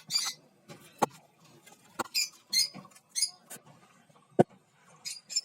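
Caged lovebirds chirping: rapid runs of short, high-pitched squeaky calls, with a few sharp clicks in between.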